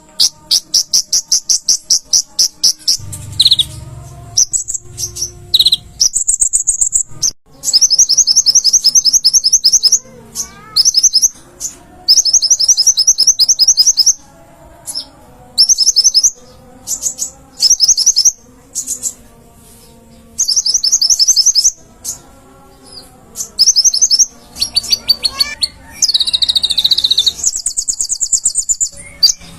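Olive-backed sunbird (kolibri ninja) singing: repeated bursts of very fast, high-pitched chittering trills, each lasting a second or two with short pauses between, and a thin sustained whistle twice.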